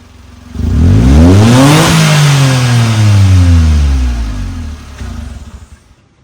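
Suzuki Super Carry kei truck engine blipped once through an aftermarket exhaust: idling, then a quick rev up about half a second in and a slower fall back to idle.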